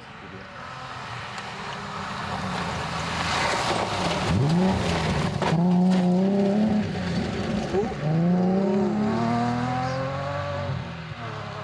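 A rally car's engine approaching, revving hard with its pitch climbing, dropping at a gear change and climbing again as it passes close by, then fading as it goes away.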